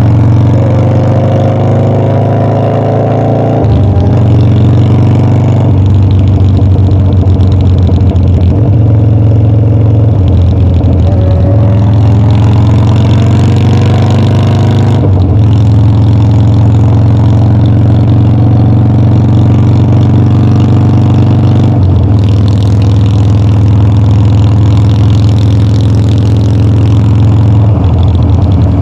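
Harley-Davidson Dyna's V-twin engine on the move, pulling up through the revs and dropping back at each gear change, several shifts in a row.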